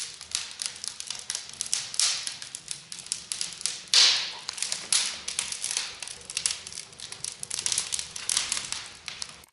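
Fire crackling in a newly built open fireplace during its first trial burn: a dense run of irregular small pops and snaps, with one louder pop about four seconds in.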